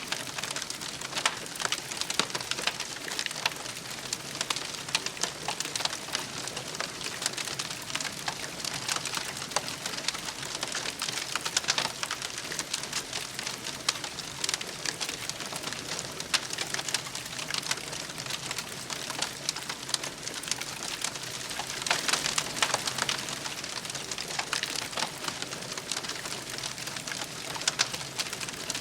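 Wood campfire burning, with dense irregular crackling and popping over a steady hiss; the crackling thickens for a moment a little over two-thirds of the way through.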